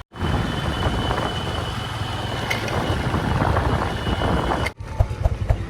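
Heavy diesel machinery running steadily with a deep rumble, broken by two brief dropouts where the clips are cut. After the second cut come a few sharp knocks.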